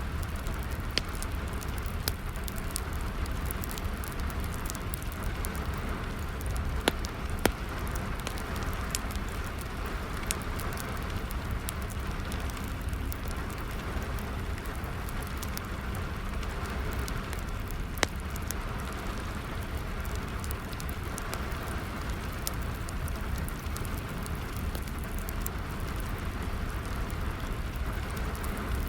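Steady rain with a wood fire crackling through it, a low steady rumble beneath. The sharp pops come irregularly, with louder ones about seven and eighteen seconds in.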